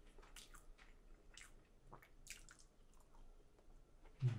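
Chewing a mouthful of egg tart with scattered soft, wet mouth clicks and smacks. There is a brief low thump near the end.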